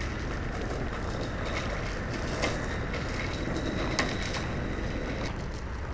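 Motorcycle riding in heavy rain: a steady blend of engine, wind and wet road noise, with a few sharp ticks.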